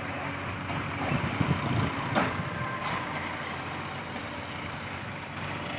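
Diesel engine of heavy farm or earthmoving machinery running steadily, with a couple of faint knocks about two and three seconds in.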